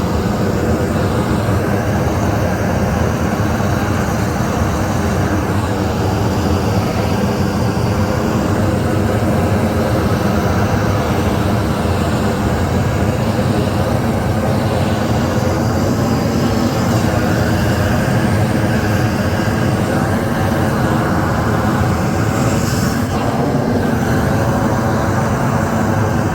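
A loud, steady, continuous running noise with a faint hum in it, unchanged throughout.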